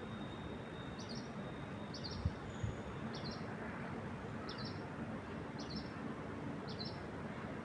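A bird chirping, a short high chirp repeated about once a second, over a steady hiss of wind through trees. A thin steady high tone runs through the first few seconds, and two brief low thumps come a little over two seconds in.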